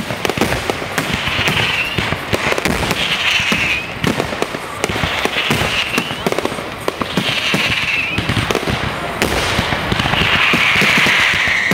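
Aerial firework shells bursting in quick succession: a dense run of bangs and crackles, with a rushing hiss about every two seconds, the longest near the end.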